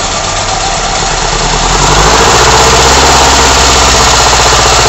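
Ford Escort Mk3 1.6 four-cylinder engine on twin Weber 40 DCNF carburettors running during air-fuel mixture adjustment; about a second and a half in its revs rise and then hold higher and louder.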